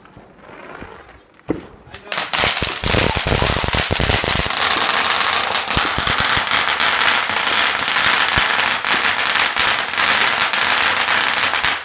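Firework going off: a few bangs about two seconds in, then a loud, dense crackling hiss full of rapid cracks that cuts off near the end.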